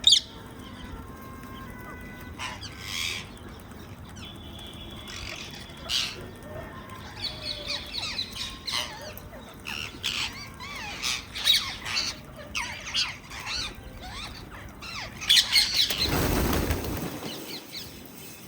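Indian ringneck parakeets squawking and chirping in short scattered calls, busiest in the second half, with a brief loud rush of noise near the end.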